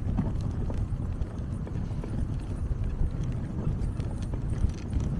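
Dog sled running over snow: a steady low rumble from the runners, with scattered light ticks from the running dogs and sled.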